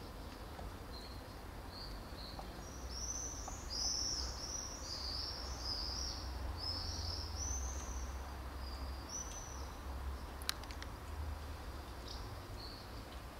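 A songbird singing a long run of short, arched high chirps, about two a second, over a steady low background rumble. A sharp click about ten seconds in.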